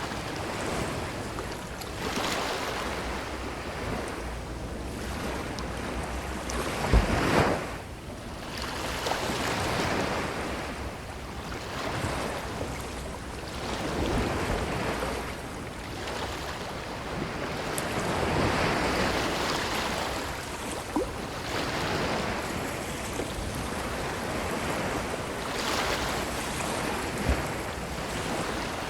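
Ocean surf washing onto a beach, swelling and fading every few seconds. About seven seconds in there is one sharp, louder burst that reaches down into a deep rumble.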